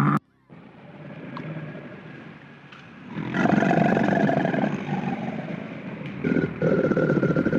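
A large animal's rough, rasping roar or growl, building up and loud from about three seconds in.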